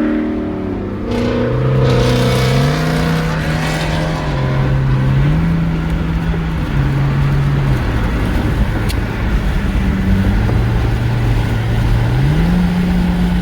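Cars driving on a highway: a steady engine drone and road noise. The engine's pitch shifts up and down several times and rises again near the end.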